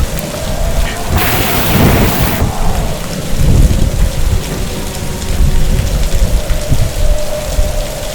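Heavy rain with rolling thunder. A loud crack of thunder comes about a second in and lasts about a second, over a continuous deep rumble.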